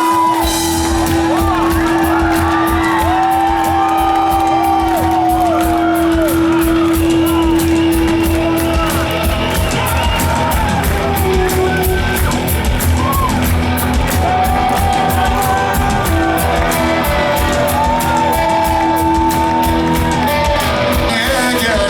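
Rock band playing live in a large hall, with a steady drum beat under guitar and singing voices.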